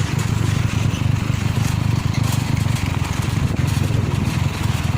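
Maxxi Bimo 102 combine harvester's engine running steadily under power, a loud, even, low rumble.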